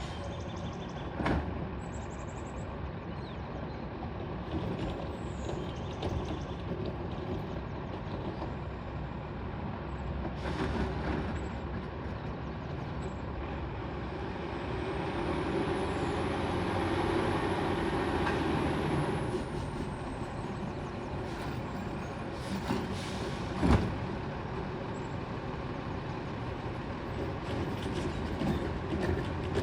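Heil STARR automated side-loading garbage truck running, the engine revving up with a high steady whine for about five seconds midway, then a sharp bang about two-thirds of the way through.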